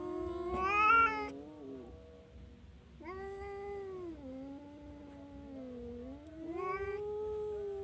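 Domestic cat yowling in long, drawn-out, wavering calls. One call rises to a loud peak about a second in, a second long call from about three seconds in dips and climbs again, and another begins near the end.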